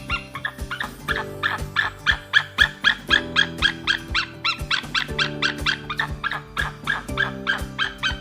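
Falcon calling: a rapid run of short, harsh repeated calls, about four a second, over background music with steady held notes.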